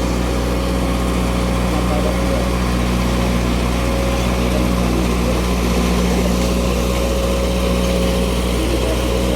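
A vehicle engine running steadily at a constant speed, a steady low hum with no revving.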